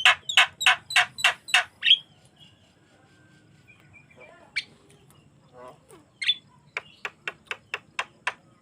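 Javan myna (jalak kebo) calling in bursts of sharp, repeated notes, about four or five a second. There is one run at the start and another near the end, with quieter scattered calls between them.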